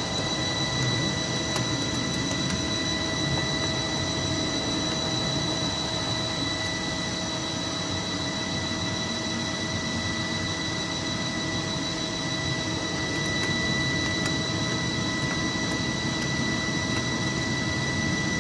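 FEELER FTC-640XL CNC lathe running a turning cut with coolant flowing: a steady machine hiss and hum with a constant high-pitched whine.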